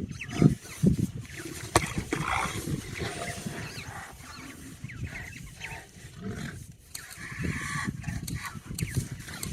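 Lions growling in repeated low, rough growls, with birds chirping in the background.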